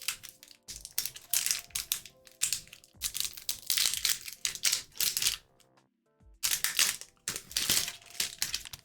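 Foil booster pack wrappers crinkling and rustling in several bursts as packs are handled and opened, with a short lull about six seconds in. Faint background music runs underneath.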